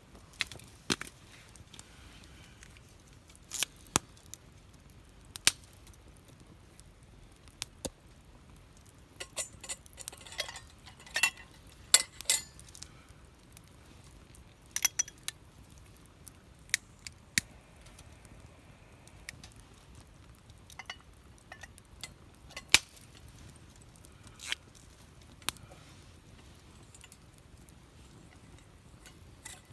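Wood fire crackling: irregular sharp pops and snaps over a faint background, with a burst of them around ten to thirteen seconds in.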